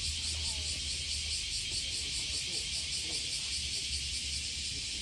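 Cicadas droning in a steady, fast-pulsing chorus, with faint distant voices underneath.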